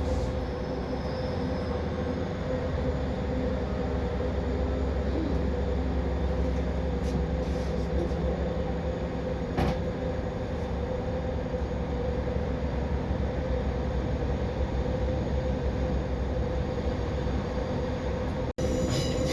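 Train running: a steady low rumble with a constant hum, one sharp click about ten seconds in, and a brief dropout near the end.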